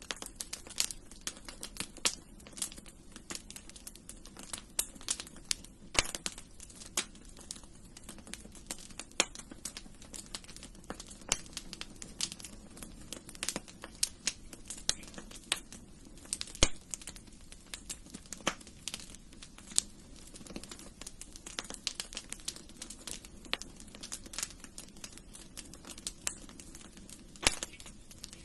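Wood fire crackling in a fireplace: irregular sharp snaps and pops, several a second, over a soft steady low sound of the burning fire.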